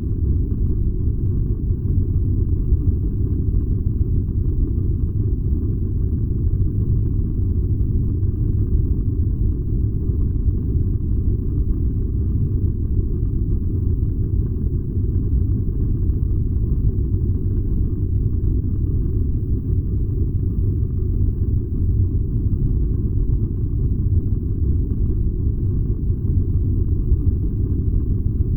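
Furnace burning with a steady, unchanging low rumble.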